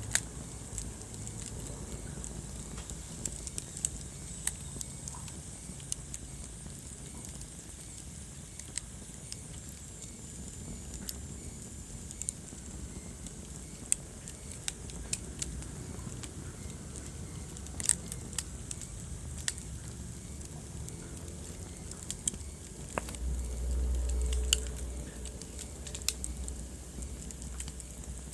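Wood fire crackling in a fireplace: irregular sharp pops and snaps over a low steady rumble of the flames, with the rumble swelling briefly near the end.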